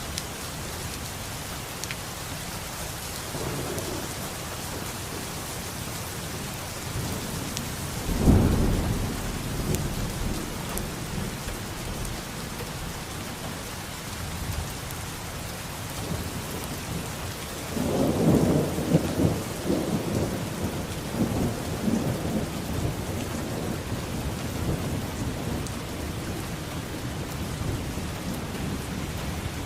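Steady rain with thunder: a sharp crack of thunder about eight seconds in, then a longer rolling peal starting just past halfway that rumbles on and fades over the following seconds.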